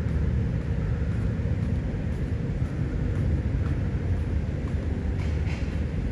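Steady low rumble throughout, with a brief faint hiss about five seconds in.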